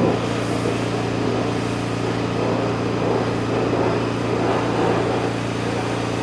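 Nissan N41 mini digger's engine running at a steady speed.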